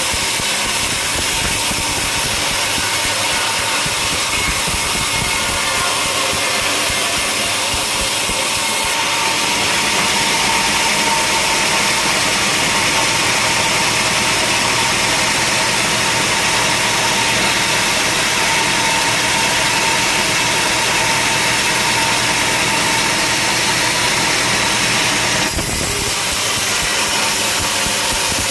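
Sawmill machinery running steadily. From about nine seconds in until a few seconds before the end, the sound is brighter and a little louder, then drops back to the earlier level.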